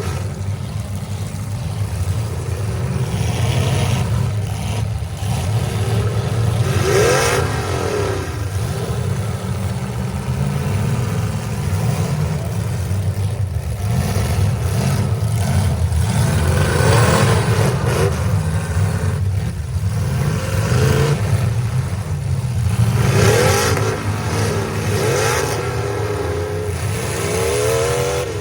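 Demolition derby cars' engines running together at high load, one or another revving up hard and dropping back every few seconds over a steady low engine din.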